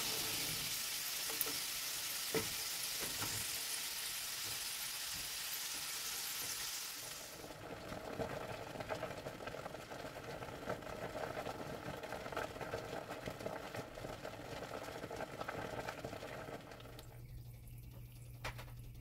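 Diced potatoes sizzling as they finish deep-frying in oil, with light clicks and scrapes of a slotted spoon and spatula lifting them out. About seven seconds in the sizzle cuts off and a softer bubbling from a steamer pot of boiling water carries on, with a low steady hum joining near the end.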